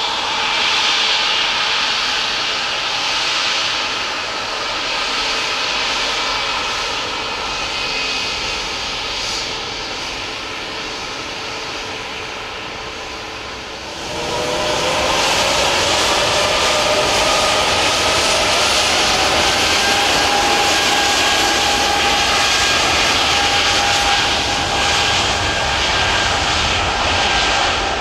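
Jet airliner engines running with a steady whine and rush. About halfway through they grow suddenly louder and the whine rises in pitch and then holds: the engines spooling up as thrust is applied.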